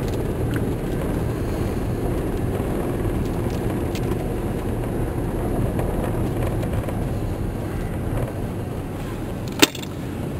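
Inside a moving vehicle driving through snow: a steady low rumble of engine and tyres. A single sharp knock sounds near the end.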